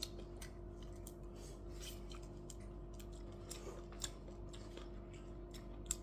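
Faint, scattered small clicks and ticks of eating at a table, such as utensils and food being handled, with a sharper click near the start and another near the end, over a steady background hum.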